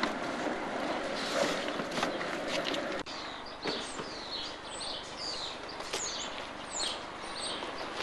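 Small birds chirping in short, quick calls over a steady hiss of outdoor street ambience, with a few soft knocks in between.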